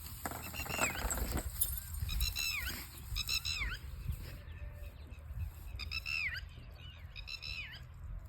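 German Shepherd puppy whining: short high-pitched cries that fall in pitch, coming in clusters, over a low rumble.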